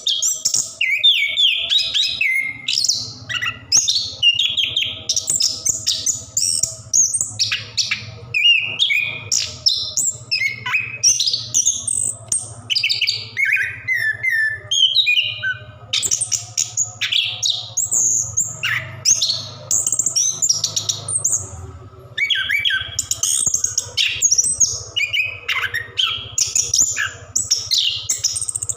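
Chestnut-capped thrush singing a long, unbroken run of rapid, varied whistled and chattering phrases with quick trills, in the continuous 'ngerol' style. A faint steady low hum lies underneath.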